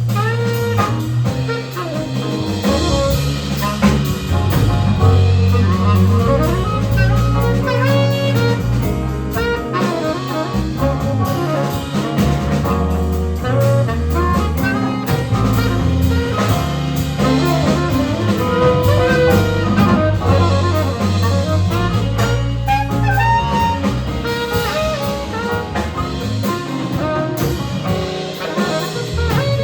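A jazz big band playing: saxophones and brass over a stepping bass line and drum kit.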